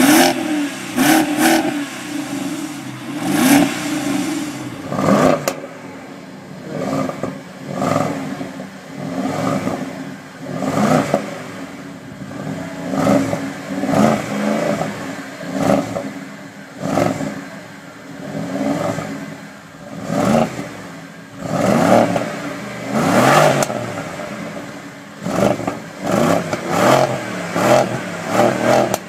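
BMW X6 engine and exhaust revved over and over in short blips, the pitch rising quickly and falling back each time, roughly every one and a half to two seconds.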